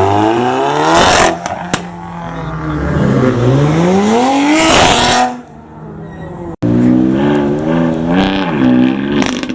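Car engines revving hard as cars accelerate away, in separate runs of climbing revs. A sharp crack comes as the first run peaks about a second in, a longer climb peaks about halfway through, and after a sudden break another rev rises and falls near the end.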